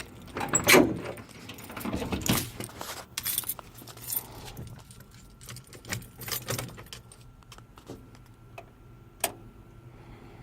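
Keys jangling with irregular clicks, knocks and clatter, loudest about a second in, over a faint steady low hum.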